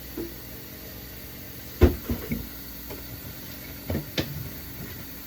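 Fridge items such as jars and bottles knocking and clunking as they are handled and set down. One loud clunk comes about two seconds in with a couple of lighter ones right after, then two more about four seconds in.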